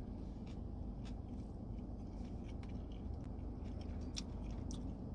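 A person chewing a mouthful of Nashville hot fried chicken sandwich, with faint scattered wet mouth clicks over a steady low hum.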